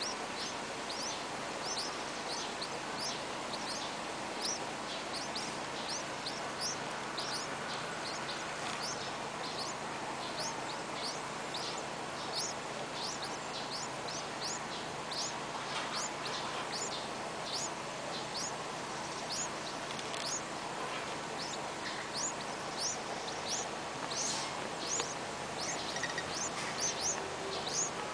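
Yellow-vented bulbul nestlings begging for food: short, high, downward-sweeping peeps repeated about twice a second, over steady background noise.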